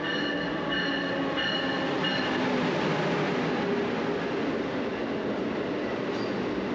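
Passenger train running on the rails: a steady rushing rumble, with high, thin squeals coming and going in the first two seconds or so.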